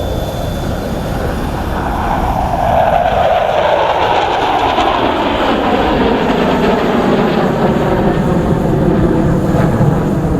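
Su-30SM fighter jets passing by at display speed, the jet noise growing louder about two seconds in, then falling steadily in pitch as they go past.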